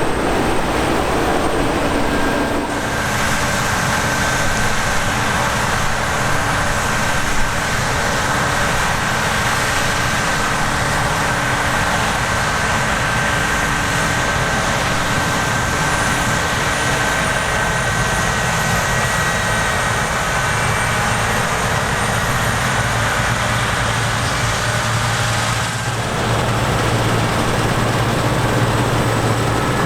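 Heavy harvest machinery running steadily: diesel engines and the threshing and drive whine of a combine harvester or tractor at work. The mix of engine tones shifts abruptly about three seconds in and again near the end.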